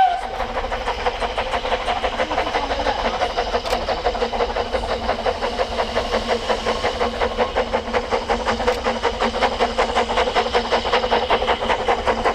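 Narrow-gauge steam locomotive working, its exhaust beating at an even rhythm of about three to four strokes a second.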